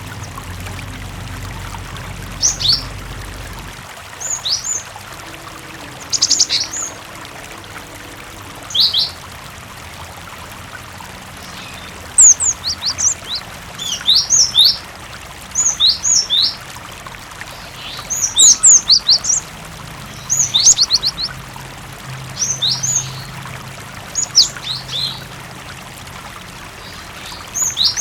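Cinereous tit (gelatik batu) calling in short bursts of quick, high, sweeping chirps, a burst every second or two, over a steady trickle of running water.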